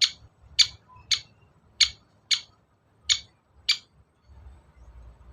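Long-tailed shrike giving a run of seven short, harsh, scratchy notes, roughly two a second, that stop about four seconds in.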